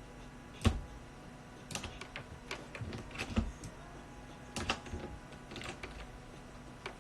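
Irregular clicks and taps of a computer keyboard and mouse being worked, with one louder knock about a second in.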